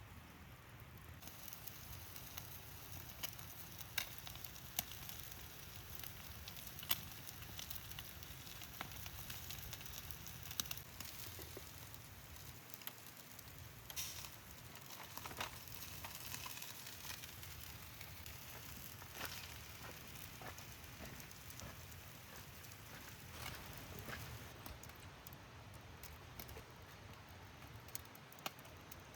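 Wood campfire crackling quietly, with irregular sharp pops.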